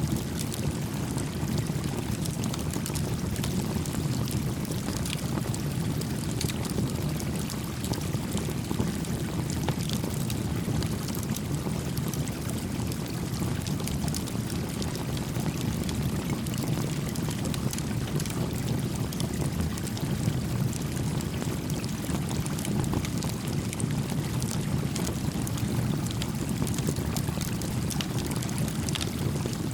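Small creek flowing steadily with a low, even rush of water, and a small campfire crackling faintly over it with scattered pops.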